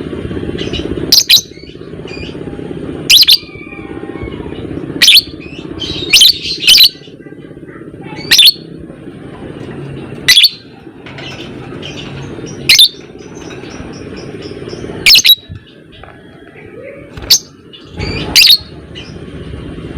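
Lovebird giving loud, short, shrill calls about every one to two seconds, over a steady busy chatter in the background.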